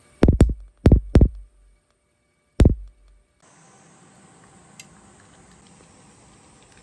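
Five sharp thuds: two quick pairs, then one more about two and a half seconds in. From about three and a half seconds in, a steady faint outdoor ambience of insects.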